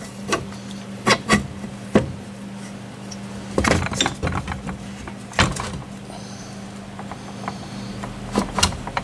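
Metal gears and shaft parts of a Kawasaki Mule 2510/3010 transmission clinking and knocking against the case as they are worked into line, in scattered sharp clanks with a short cluster a few seconds in. A steady low hum runs underneath.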